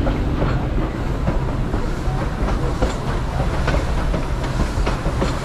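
Railroad train cars rolling along the track, the wheels clicking and clattering irregularly over the rail joints over a steady rumble.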